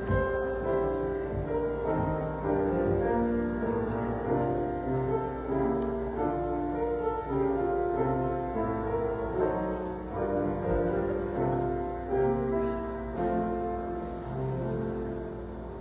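Slow instrumental keyboard music of held chords and melody notes, growing quieter near the end.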